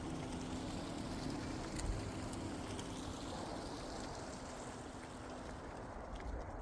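Steady tyre and road noise of a car driving, with a faint low hum that fades out about five seconds in, the whole slowly growing quieter.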